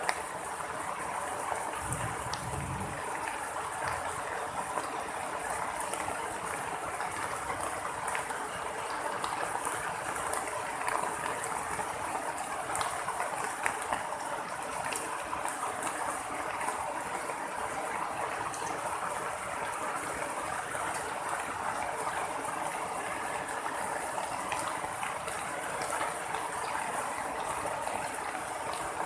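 Steady rain during a thunderstorm, an even hiss with scattered ticks of drops; a brief low rumble about two seconds in.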